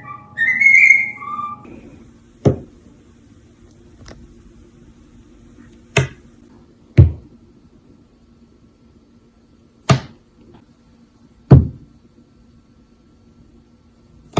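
A parrot whistling a short tune of rising and falling notes, which stops after about a second and a half. Then comes a low steady hum with about five sharp knocks at irregular intervals.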